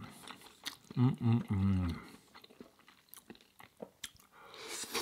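Close-miked mouth sounds of a man eating curry with bread: wet chewing clicks and smacks, with three short low hummed "mm" sounds about a second in.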